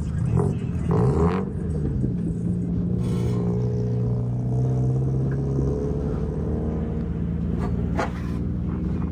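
Car engine running, rising in pitch about a second in as it revs, then settling into a steady hum.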